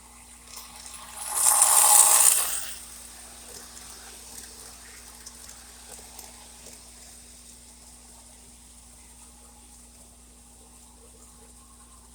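O gauge model steam turbine train running on its track. About a second in a loud hissing rush swells up, then fades back to a faint steady running noise over a low hum.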